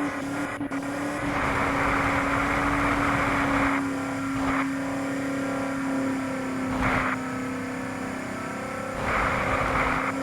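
Motor vehicle engine running and revving, with a steady drone and three stretches of louder rushing noise, the longest from about a second and a half to four seconds in.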